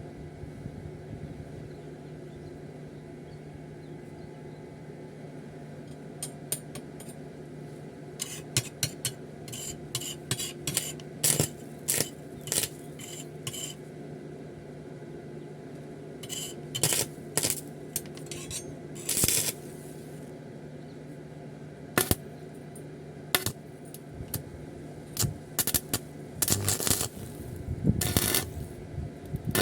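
Metal pieces clinking and knocking against each other, scattered and irregular, with a few scrapes. A steady low hum runs underneath.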